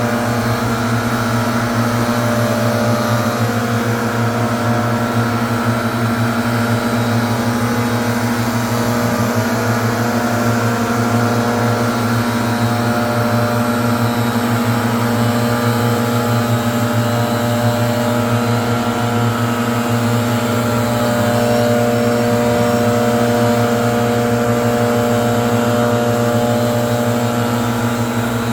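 Leaf blower engine running steadily at a constant pitch, its air blast a loud hiss over the engine note.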